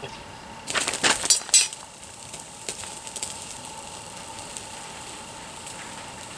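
Small fire crackling: a quick burst of sharp crackles and pops about a second in, then only a few faint scattered crackles.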